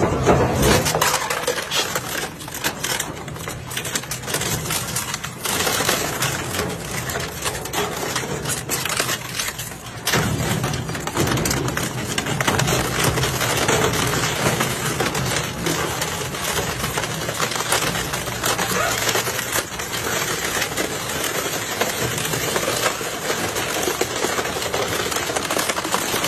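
A motorcycle being crushed in a machine: plastic and metal crackle, crunch and snap in a dense, continuous stream of small cracks, over a low steady mechanical hum.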